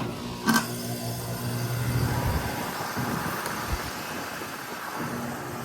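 Goodman GSZ14 1.5-ton heat pump outdoor unit running just after starting up in cool mode: the Copeland scroll compressor hums steadily and the condenser fan runs, with a sharp knock about half a second in.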